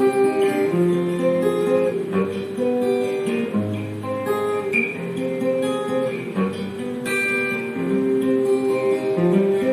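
Acoustic guitar playing the instrumental introduction to the song, a melody of picked and strummed notes with no voice yet.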